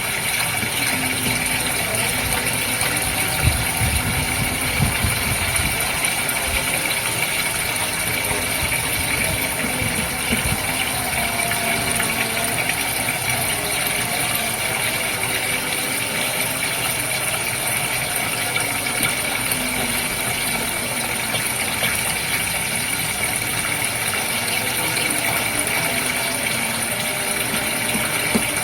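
Goldfish aquarium's water and pump running: a constant hiss of moving water over a steady mechanical hum, with a few soft low knocks in the first seconds.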